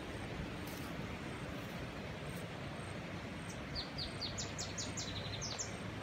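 A bird sings a quick run of short, high, falling whistled notes past the middle, over steady outdoor background noise.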